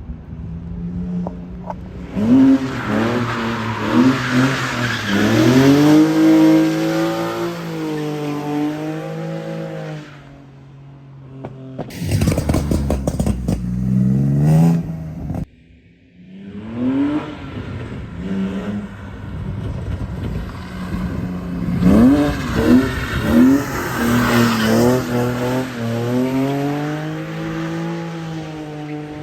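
BMW E36 M3 straight-six revving up and down again and again as the car drifts on a wet road, with tyre and spray noise over the engine. Two such runs, broken by a short rough burst of noise and a sudden drop about halfway through.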